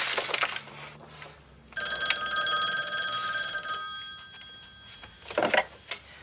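A telephone bell rings once, for about two seconds, then fades away. Before it, in the first half-second, the noisy tail of a crash dies down.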